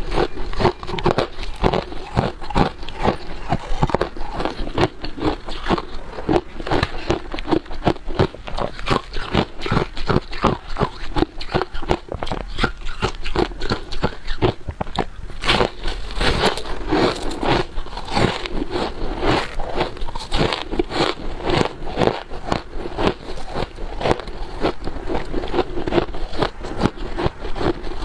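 Freezer frost being bitten and chewed close to the microphone: continuous rapid crunching and crackling of packed ice crystals.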